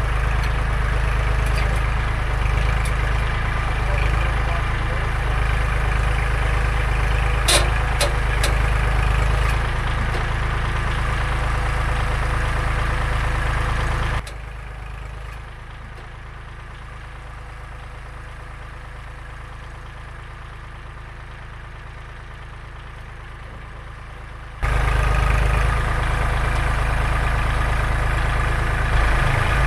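A sawmill's engine running steadily, with a few sharp clicks about seven seconds in. About halfway through, the sound drops abruptly to a lower level for some ten seconds, then comes back just as abruptly.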